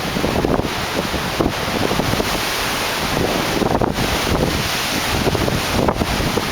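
Strong wind blowing across the microphone: a steady rush with irregular low buffeting.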